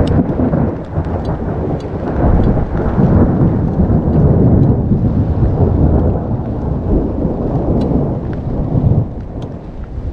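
Long, loud rolling thunder from close lightning strikes, swelling and easing, with rain falling and scattered sharp ticks of drops.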